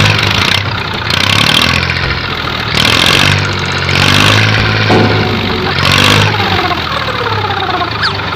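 Mini tractor engine running steadily, its sound swelling and easing about once a second.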